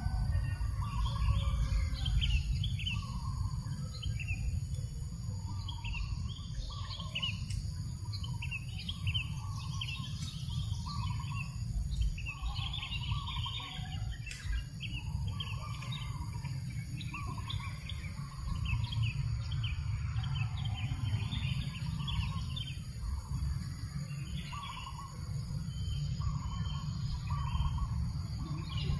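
Several birds chirping and calling over and over, some short high chirps and a repeated lower call, over the steady low rumble of a breeze.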